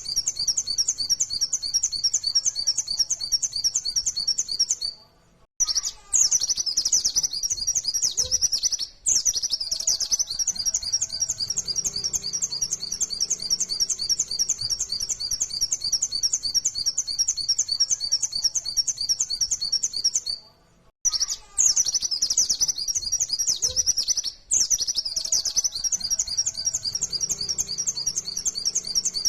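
Pleci (white-eye, Zosterops) singing a fast, unbroken chatter of rapid high repeated notes, the 'nembak' rapid-fire song, stopping briefly a few times.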